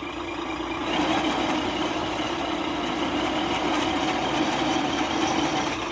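RC truck's onboard sound module playing a simulated Scania truck diesel engine idling through its small speaker, a steady hum that gets a little louder and hissier about a second in.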